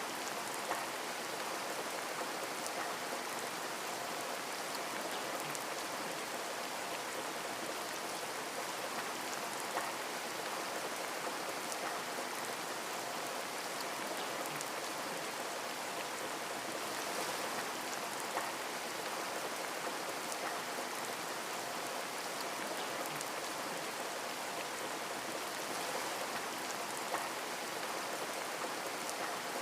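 Heavy rain falling steadily, an even dense hiss with a few distinct drops ticking through it.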